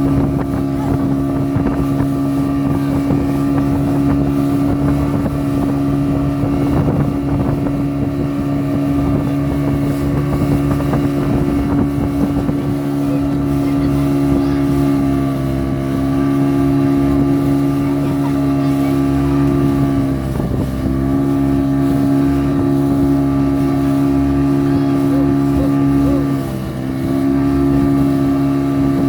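Motorboat engine running steadily at speed, as when towing a banana boat, with three brief dips in pitch in the second half.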